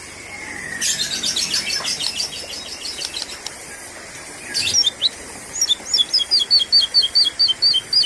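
Sooty-headed bulbul lure calls: a faint falling whistle, then a burst of fast chattering about a second in, and from about halfway on a run of short, quick high notes, about four a second.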